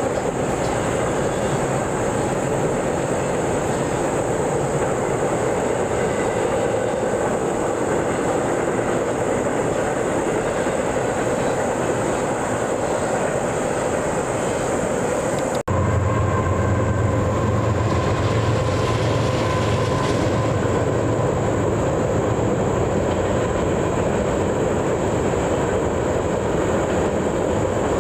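Train passing on the rails with steady rolling wheel noise and some clickety-clack. A little past halfway there is an abrupt cut, and after it a heavier, lower rumble continues.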